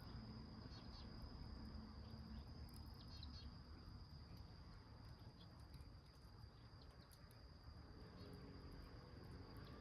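Near silence with a faint, steady, high insect trill, and a few small crackles from the wood fire burning in a milk can.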